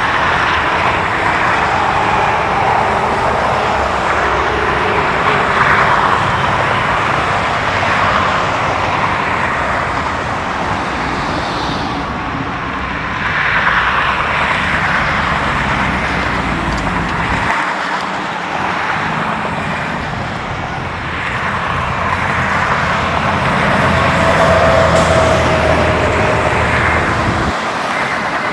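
Steady road traffic noise, vehicles passing on a busy road, swelling and easing in loudness.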